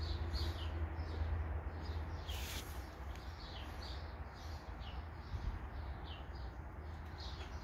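Small birds chirping: many short, high, falling chirps repeating every half second or so, over a steady low hum, with one brief louder rushing sound about two and a half seconds in.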